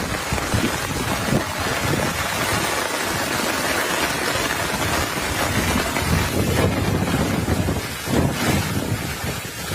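Heavy rain pouring steadily, with wind gusting against the microphone in low rumbling buffets.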